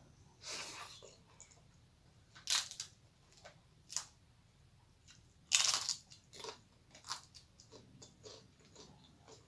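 Crisp papad being bitten and chewed with the mouth close to the microphone: a series of sharp, crackly crunches, the loudest a little past halfway, with softer chewing between them.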